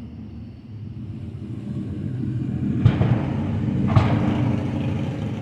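Fireworks going off: a low rumble of booms builds, with two sharp bangs about three and four seconds in.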